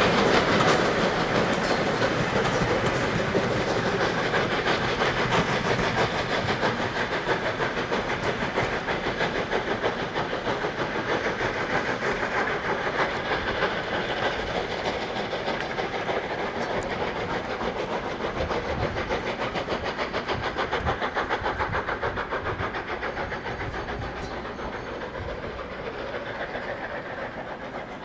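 Train running along the line with its wheels clattering over the rails, growing steadily fainter as it draws away.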